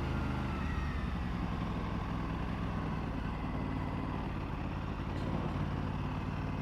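Aprilia RS 457's 457 cc parallel-twin engine idling steadily, with no revving.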